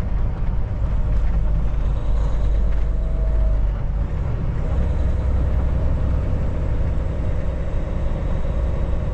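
Kenworth T680 semi truck driving on the road, heard from inside the cab: a steady low rumble of the diesel engine and road noise.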